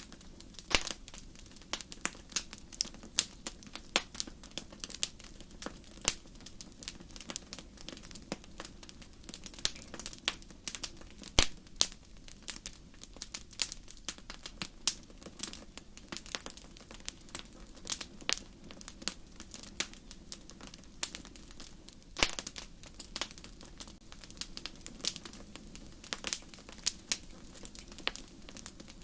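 Wood fire burning in a fireplace: irregular sharp crackles and pops over a low steady rush, with the loudest pop about eleven seconds in and another strong one about twenty-two seconds in.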